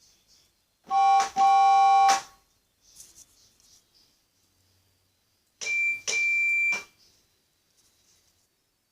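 Train whistle signals sounding twice, each a short toot followed by a longer blast: first a lower, chord-like whistle, then about four seconds later a single high-pitched whistle.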